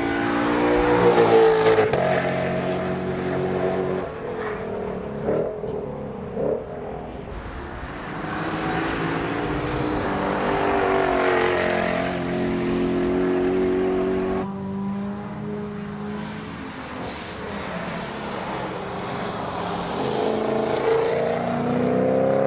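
Lexus RC F's V8 driven hard on a track lap: revs climb under full throttle, step down at a gear change, climb again for several seconds, then drop suddenly as the throttle closes, before building once more near the end.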